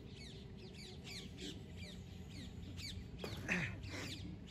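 Birds calling over and over in the trees, short falling chirps several times a second, with a brief louder sound about three and a half seconds in.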